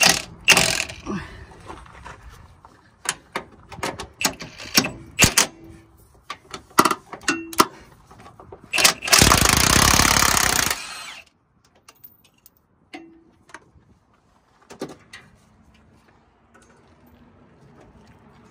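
Work on a semi-truck cab: a string of sharp metal clanks and knocks, then one loud burst of about a second and a half from a power tool. A few faint knocks follow.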